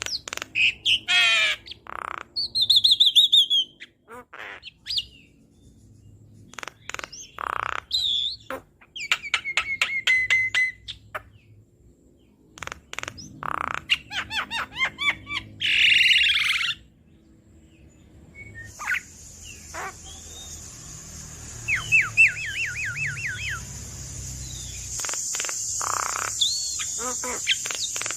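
Javan myna (jalak kebo) singing an energetic, varied run of chirps, sweeping whistles, rapid rattling trills and harsh squawks. From about two-thirds of the way in, a steady high hiss runs under the calls.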